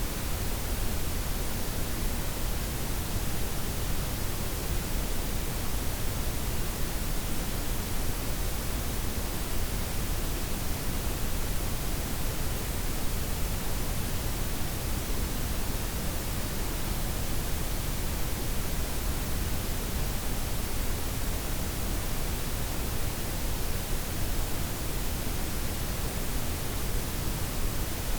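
Steady synthetic noise blend of white, pink and brown noise: an even, unbroken hiss with a deep rumble underneath, never changing.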